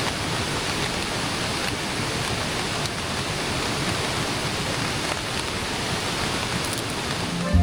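Steady light rain falling, a continuous even hiss of water.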